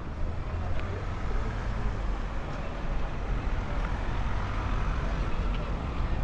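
Road traffic: a motor vehicle running, with a steady low rumble.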